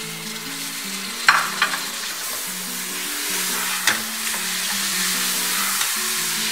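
Chopped tomatoes sizzling in hot oil in a pressure cooker as they are stirred, the hiss building after the first second. The stirring spoon knocks sharply against the pot three times, twice close together just after a second in and once about four seconds in.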